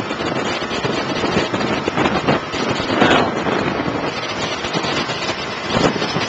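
Strong tropical-storm wind gusting and buffeting the microphone, a loud, rushing roar that swells and dips.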